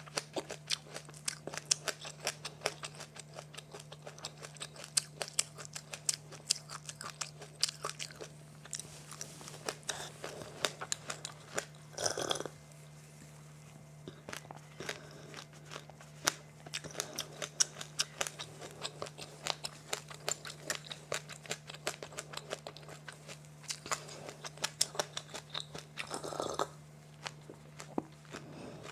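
A person chewing a crunchy dry snack close to the microphone: dense, quick crackling crunches throughout, with a louder, longer burst about twelve seconds in and another near the end. A steady low hum runs underneath.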